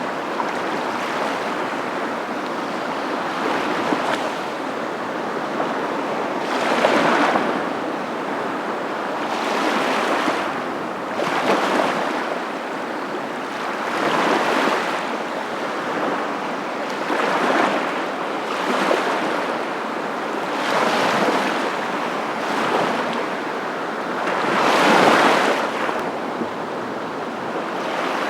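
Waves washing on a shore: a steady hiss of water with a swell of louder surf every two to three seconds, the biggest near the end.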